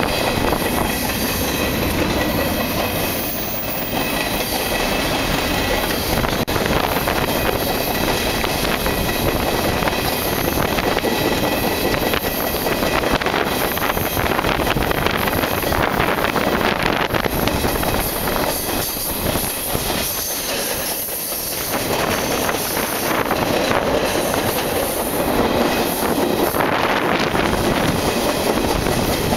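Freight train rolling along, heard from aboard one of its cars: the steady rumble and clatter of steel wheels on the rails.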